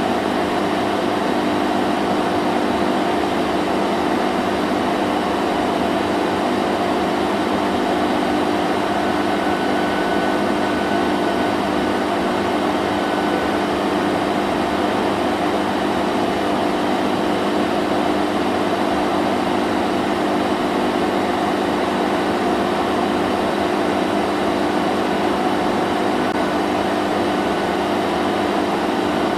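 Vacuum cleaner running steadily: a constant motor hum over an even rush of air, unchanging in pitch and level.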